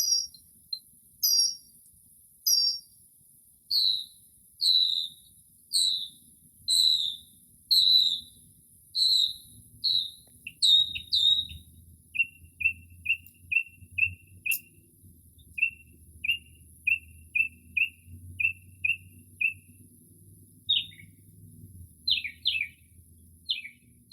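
Northern mockingbird singing, running through mimicked phrases and repeating each several times before switching: a high double note three times, then clear downslurred whistles about once a second, then a quick run of short chips, then sharp downslurred notes near the end.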